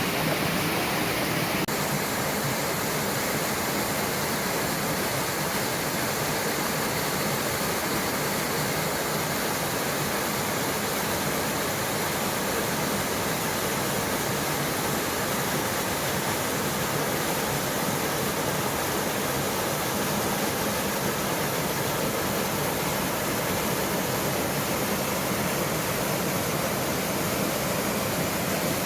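Mountain stream rushing steadily, a constant even sound of flowing water.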